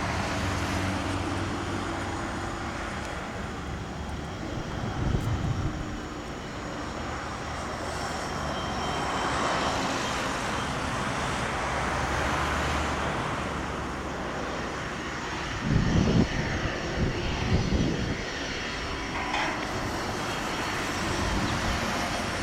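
Cessna 680 Citation Sovereign's twin turbofan engines running at taxi power: a steady jet hum with a faint high whine. Brief low rumbles come about five seconds in and again past the two-thirds mark.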